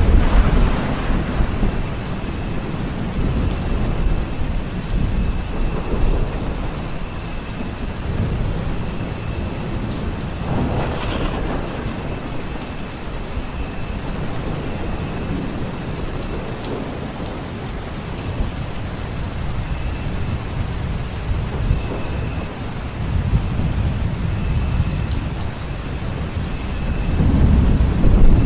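Steady heavy rain with rolling thunder. Low rumbles of thunder swell at the start, about a third of the way through, and again near the end.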